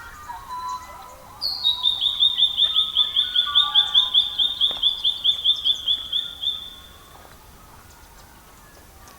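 A songbird singing one long, loud trill of rapid evenly repeated notes, about five a second and slowly falling in pitch. It starts about a second and a half in and lasts about five seconds. Softer, lower bird calls come before it, and a few faint clicks are heard.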